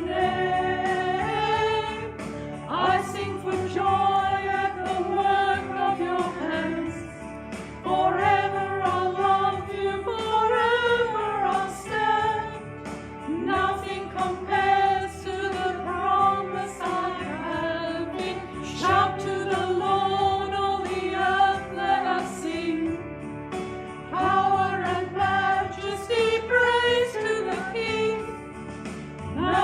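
A small group of singers singing a hymn with instrumental accompaniment, phrases held and then breaking every couple of seconds.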